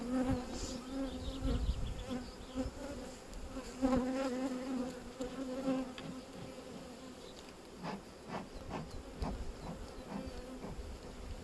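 Honeybees buzzing around an open hive during an inspection, a steady hum that is louder in the first half and eases off later. A few light knocks sound about eight to ten seconds in.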